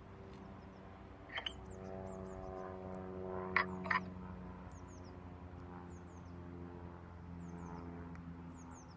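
A steady low droning hum, with small birds giving short high chirps over it and a few knocks along the way.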